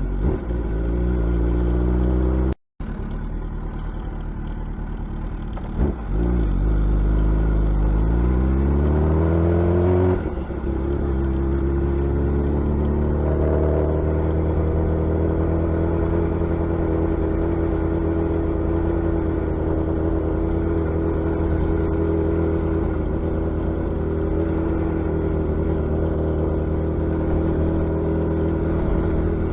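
Suzuki Hayabusa's inline-four engine and exhaust under way on the road. The engine pitch climbs under acceleration from about eight seconds in, drops back at the shift around ten seconds, rises a little more, then holds steady at cruising speed. The sound cuts out for a moment about three seconds in.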